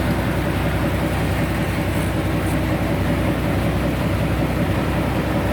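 Sawmill machinery running steadily: a continuous low engine drone at an even pitch and level.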